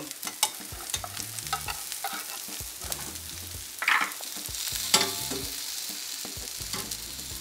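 Mixed-bean burger patties frying in shallow oil in a frying pan: a steady sizzle full of small crackles, with two louder moments about four and five seconds in.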